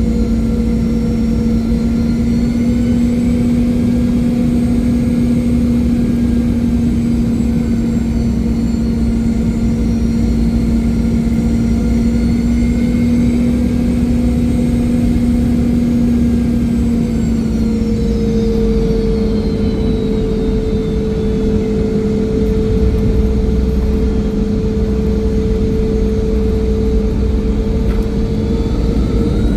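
Cabin noise of a Boeing 717-200 with its rear-mounted Rolls-Royce BR715 turbofans: a steady loud rush of engine and airflow with a droning hum. About seventeen seconds in, the hum and the higher whines drop slightly in pitch as the engines slow.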